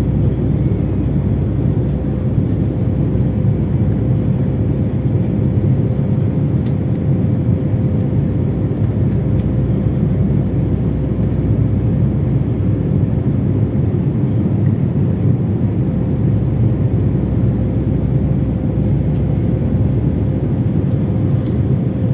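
Airplane engines and airflow heard from inside the passenger cabin: a steady low rumble with a constant hum over it, not rising or falling.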